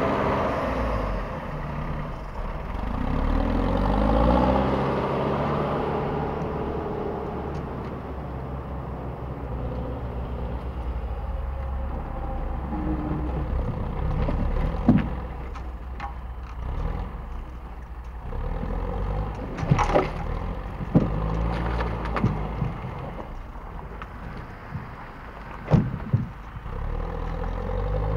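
LKT 81 forestry skidder's diesel engine running, its speed rising and falling. Several sharp metallic knocks and clanks about halfway through and near the end.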